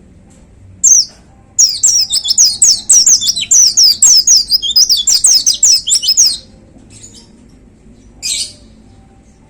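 White-eye (pleci) singing: a single short call, then a rapid burst of quick, high, down-slurred notes lasting about five seconds, and a short harsh buzzy note near the end.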